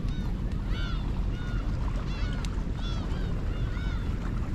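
Birds calling again and again, short clear notes that rise and fall, about two a second, over a steady low rumble.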